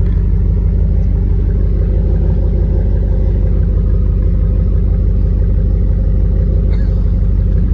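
Truck engine running steadily, an even low hum with no revving.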